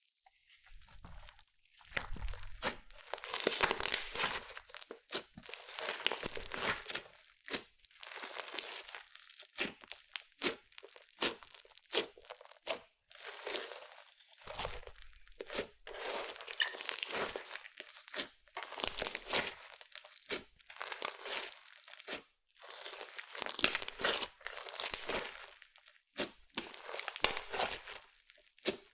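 Clear slime mixed with makeup and glitter being squeezed and stretched by hand: repeated sticky crackling and popping squishes, one every second or so, starting about two seconds in.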